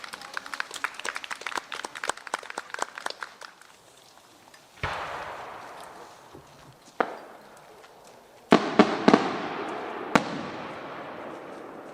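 Aerial firework shells bursting. A sharp boom about five seconds in trails off in a long rolling echo, another follows around seven seconds, then three loud booms come in quick succession near nine seconds and one more a second later, each fading in echo. Before the booms, a dense patter of rapid small pops runs for about three and a half seconds.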